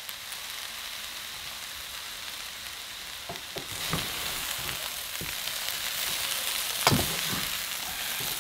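Stir-fry of chicken and vegetables sizzling in a nonstick wok with a steady hiss. Wooden utensils toss the food from a little under halfway in, and the sizzle grows louder, with scattered knocks of wood against the pan, the loudest near the end.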